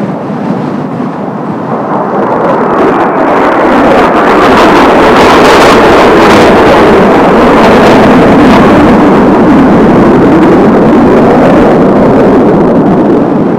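Six Kawasaki T-4 jet trainers flying past in formation, their turbofan engine noise building over the first few seconds, staying loud through the middle and easing slightly near the end.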